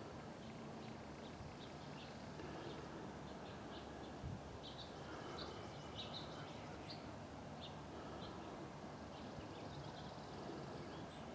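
Faint outdoor ambience with birds giving short, high, scattered chirps, thickest in the middle stretch.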